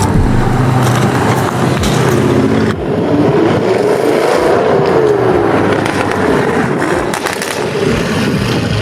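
A car engine running loud, its pitch climbing and then falling away over a couple of seconds around the middle.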